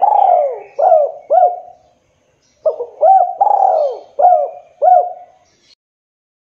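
Derkuku dove cooing: a phrase of repeated coos that ends about two seconds in, then, after a short pause, a second phrase of five coos.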